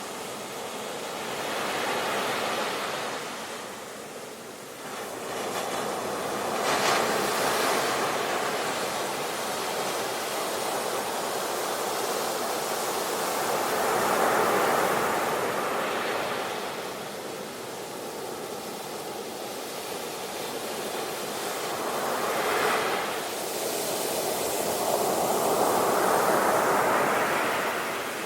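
Sea waves breaking and washing on the shore, the surf swelling and ebbing every several seconds, with sharper crashes about a quarter of the way in and again about three-quarters through.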